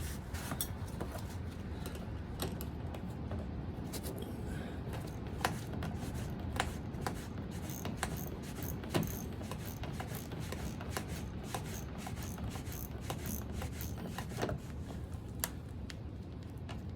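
Scattered sharp metal clicks and clinks of wrenches working a bolt through a nylock nut, over a steady low rumble of wind on the microphone.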